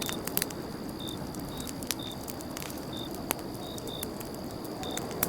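Campfire crackling with scattered sharp pops over a low, steady rush, while crickets chirp: one continuous high trill and short chirps at irregular intervals.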